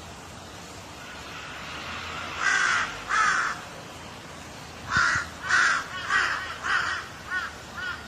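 Crow cawing: two harsh caws about two and a half seconds in, then a run of four caws from about five seconds, followed by shorter, fainter calls near the end, over a steady background hiss.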